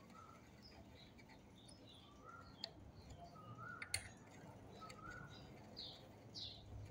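Near silence, with faint short bird chirps repeating every second or so and two light clicks near the middle.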